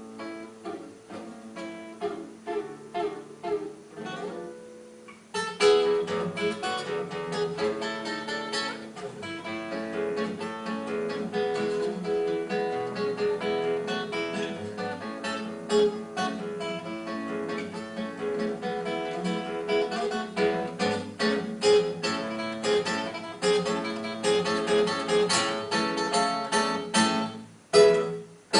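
Acoustic guitar music: sparse single plucked notes at first, then fuller, louder picking and strumming from about five seconds in.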